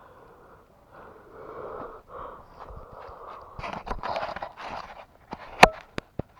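A person breathing hard close to the microphone in several breathy puffs, with a few sharp clicks near the end. The loudest click comes about five and a half seconds in.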